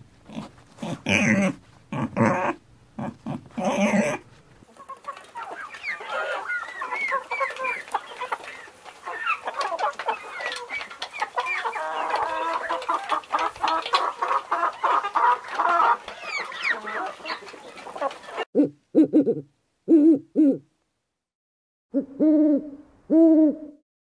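A pig grunting a few times, then a flock of chickens clucking over one another for about fourteen seconds, then an owl hooting in short separate calls near the end.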